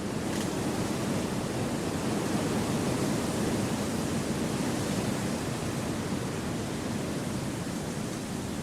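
Wind rushing through a forest, a steady deep hiss that swells slightly in the middle.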